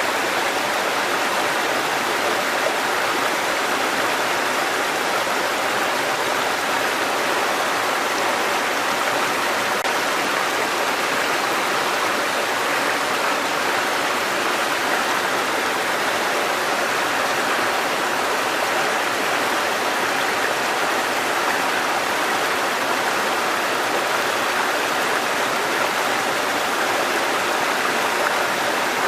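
A mountain stream cascading over rocks, a steady rush of water that stays even throughout.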